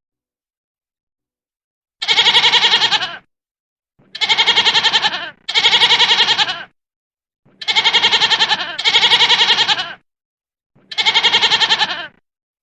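An animal bleating six times, each call about a second long with a fast quaver, in a one, two, two, one grouping.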